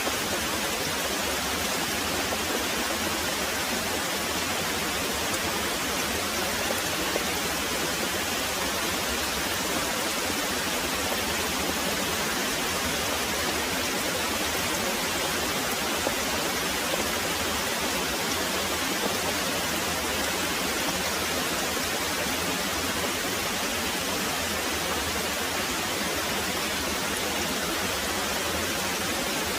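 Very heavy rain pouring steadily: a dense, even hiss with no breaks or thunder.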